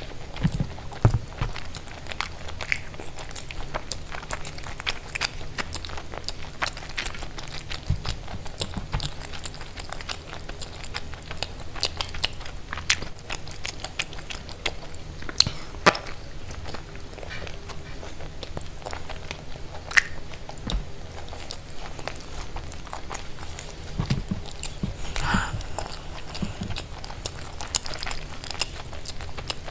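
Close-miked eating: chewing and biting, with frequent sharp crunchy clicks.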